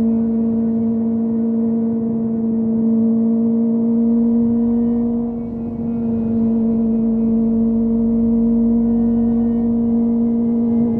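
Kawasaki ZX25R's four-cylinder engine running at a steady high cruising speed, a constant engine note over wind and road noise. There is a short dip in loudness about halfway through.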